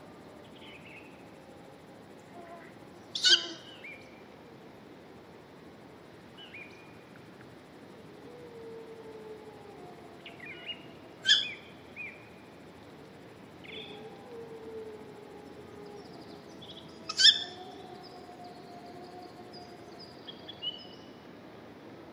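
Wild birds calling. Three loud, sharp calls come several seconds apart among softer chirps, over low, drawn-out wavering notes.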